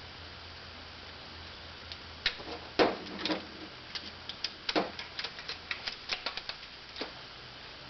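Plastic clicks and taps from a vacuum cleaner handle's cover and locking tabs being handled and snapped into place: a few louder clicks in the first half, then a quick run of small ticks.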